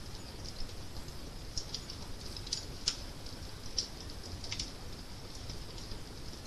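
Wood fire crackling: irregular sharp pops and snaps over a low steady rumble, with a few louder pops around the middle.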